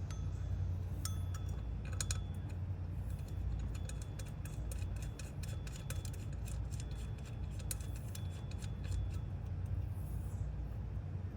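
Small metal-on-metal clicks and clinks of hand tools and bolts, a few of them ringing briefly, over a steady low hum.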